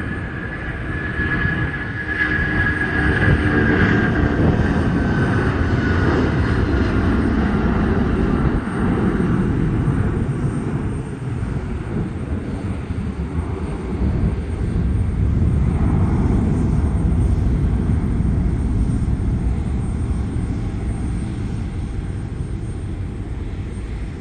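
Boeing 757 freighter's Pratt & Whitney PW2040 turbofans at takeoff thrust: a loud, deep, continuous jet rumble, with a high engine whine that slides down in pitch and fades over the first several seconds.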